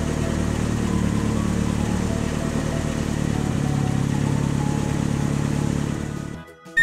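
Car engine sound effect running steadily as a low hum, fading out near the end.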